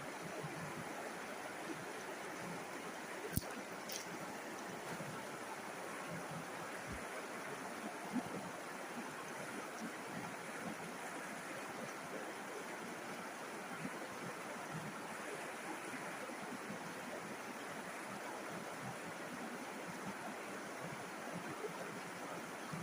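River water flowing and rushing steadily, with a sharp click about three seconds in and a fainter one just after.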